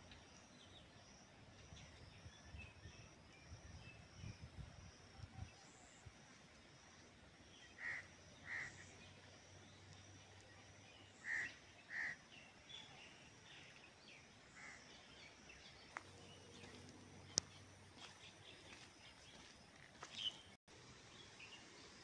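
Faint outdoor field ambience. A bird gives short two-note calls twice, about eight and eleven seconds in, over a faint high repeating chirr, with some low rumble in the first few seconds. A single sharp click comes about seventeen seconds in.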